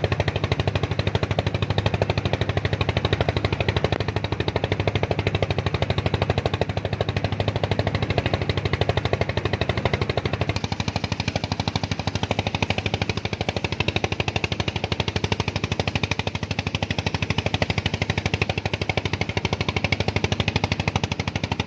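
A small engine running steadily with a fast, even chugging beat. Its tone changes about ten and a half seconds in.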